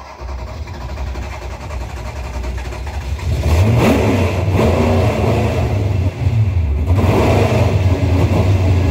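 Car engine running and revving, louder from about three seconds in.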